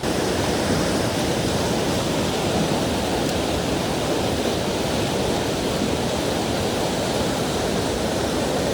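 Mountain stream rushing over rocks: a steady, loud wash of water.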